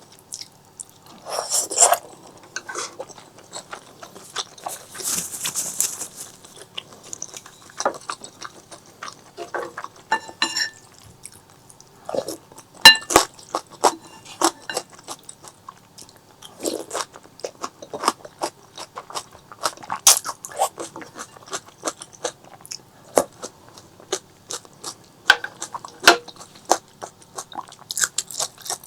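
Close-miked eating sounds: a person chewing and biting food, with many short, sharp clicks and crackles at an irregular pace and a few longer wet, hissy smacks.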